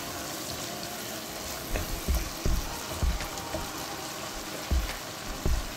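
Onion, tomato and spice masala sizzling as it fries in oil in a pot, cooking down so the spices cook through. From about two seconds in, a spatula stirs it, with irregular dull knocks against the pan.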